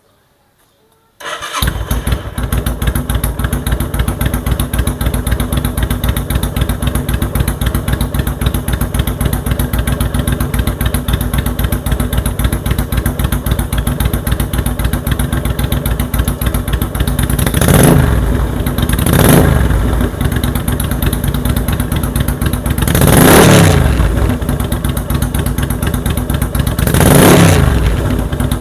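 Kaisar Ruby V250 V-twin motorcycle starting through its newly fitted custom exhaust, catching about a second in and settling into a fast, uneven idle beat. Later the throttle is blipped four times, each a short rev that rises and falls back to idle.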